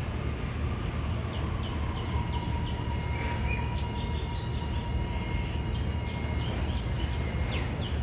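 Melbourne Metro electric suburban train running, a steady low rumble with faint high whining tones over it and a scatter of short high chirps or squeaks.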